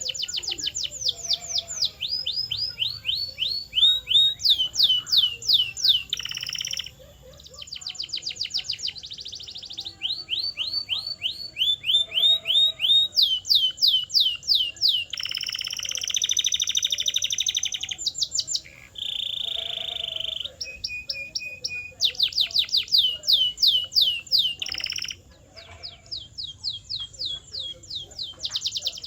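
Canary singing: a run of phrases, each a fast series of repeated downward-sweeping notes that switches to a new note type every second or two, with a sustained rolling trill about halfway through.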